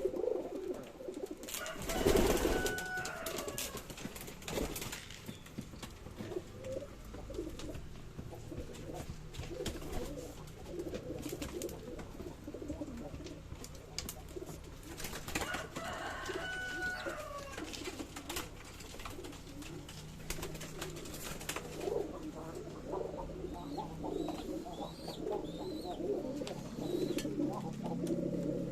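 Domestic pigeons cooing over and over, with two louder noisy bursts, one about two seconds in and one around the middle.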